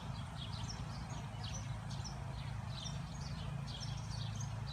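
Bird chirping: many short, quick high chirps, several a second, over a steady low hum.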